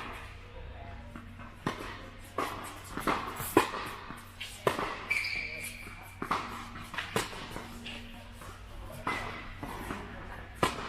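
Tennis balls being struck by rackets and bouncing on a court during a rally: a series of sharp pops, irregularly spaced about half a second to a second and a half apart, over a faint steady hum.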